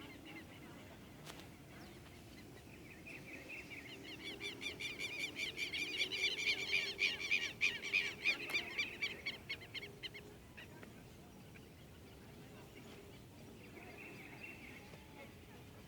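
A bird calls in a long, rapid series of loud repeated high notes that swells and then fades over about eight seconds. A shorter, fainter run of notes follows near the end.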